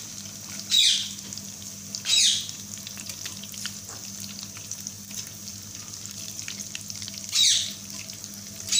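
Paper-wrapped chicken macaroni rolls deep-frying in hot oil with a steady sizzle and crackle while they are turned with a wire skimmer. Three loud, short, high squeaks that slide downward cut through the frying about a second in, about two seconds in and near the end.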